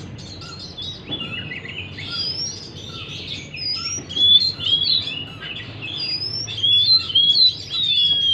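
Oriental magpie-robin (kacer) singing a continuous, varied song of clear whistled slurs and quick chirps, some notes gliding downward.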